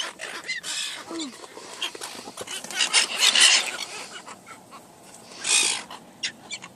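Birds giving short squawking calls, one falling in pitch, mixed with several loud bursts of noise.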